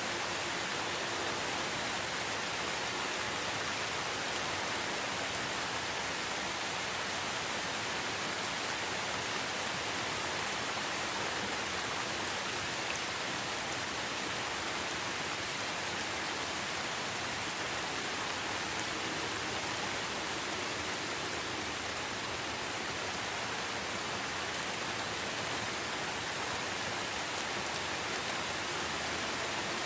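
Steady rain falling, an even hiss that stays the same throughout, with no birds or other sounds standing out.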